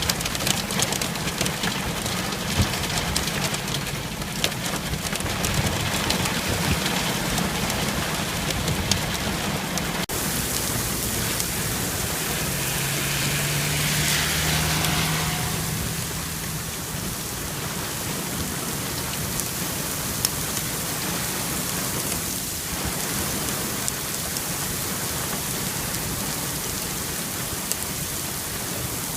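Heavy rain pouring down, with many sharp ticks of drops or hailstones striking during the first ten seconds. About ten seconds in the sound changes suddenly to a steadier rain hiss, and a low hum swells and fades a few seconds later.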